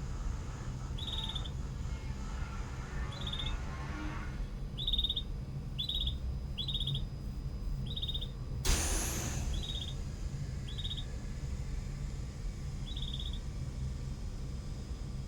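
Canaries calling: short, high, rapidly pulsed chirps repeating about once a second at irregular intervals over a steady low hum. A brief rushing noise cuts in about nine seconds in.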